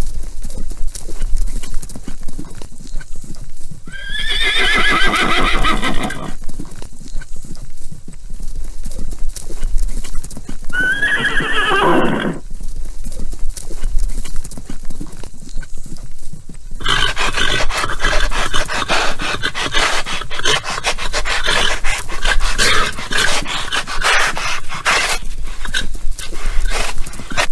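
Horses neighing over clip-clopping hooves. A quavering whinny comes about 4 seconds in and a second whinny falling in pitch comes about 11 seconds in; from about 17 seconds on, a longer, denser stretch of neighing carries on over the hoofbeats.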